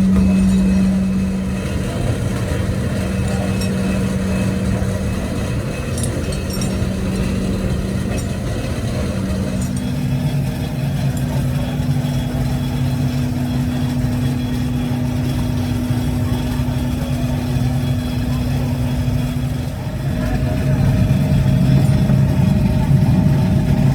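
Machinery running with a steady hum, its pitch shifting to a new level about ten seconds in and again near the end.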